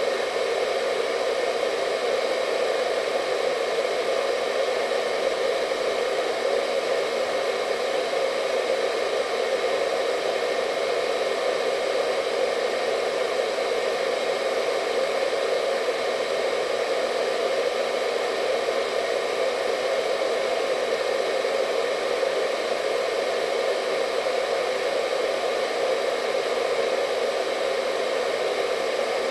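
Hair dryer running steadily: a constant whooshing hum of its fan and airflow, with a faint high whine over it and no change in speed.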